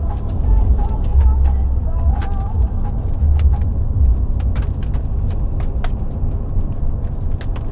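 Car driving, with a steady low rumble heard from inside the cabin and scattered sharp ticks on the car, more of them in the second half.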